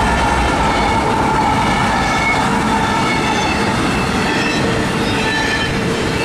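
CSX intermodal freight train rolling past: a steady loud rumble and rattle of wheels on the rails, with short faint high squeals from the wheels.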